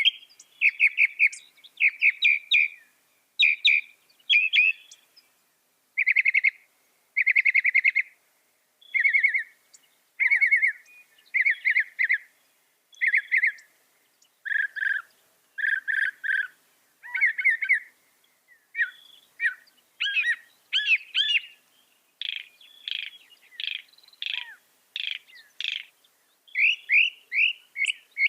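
Mockingbird singing: a continuous string of short phrases, each a quick run of repeated chirps, with one kind of phrase repeated a few times before it switches to another.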